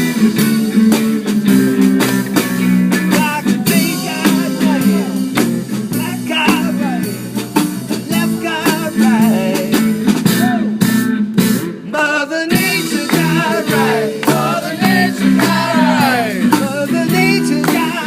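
Live band music: guitar and drums playing, with singing over it.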